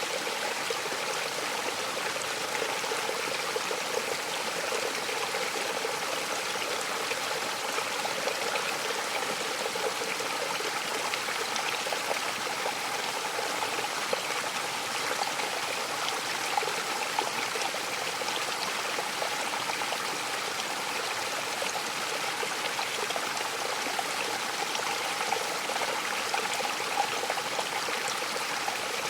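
Waterfall: water falling and splashing in a steady, even rush, with no breaks or changes.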